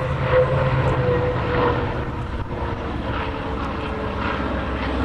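Piston-engined WWII warbird flying past: a steady propeller-engine drone whose pitch sinks slightly as it goes by.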